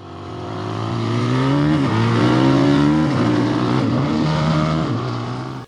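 Motorcycle engine running hard, its pitch dipping and climbing again a few times. It fades in at the start and cuts off abruptly near the end.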